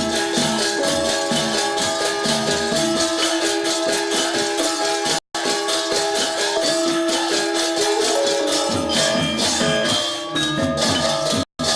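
Balinese gong gamelan playing a classical lelambatan piece: dense, rapid metallic clashing of cymbals over sustained bronze metallophone and gong tones. The sound cuts out for an instant twice, about five seconds in and near the end.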